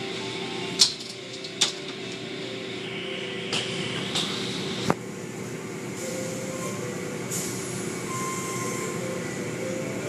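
Car wash machinery running with a steady hum, broken by a few sharp knocks in the first five seconds.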